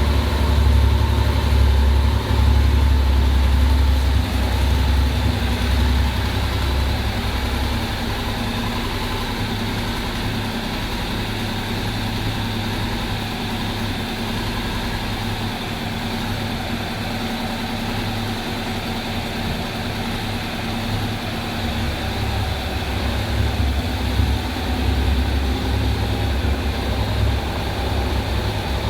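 Honda NC750X's parallel-twin engine idling steadily, just started after an oil change. It is a little louder for the first few seconds, then settles to an even idle, which picks up slightly near the end.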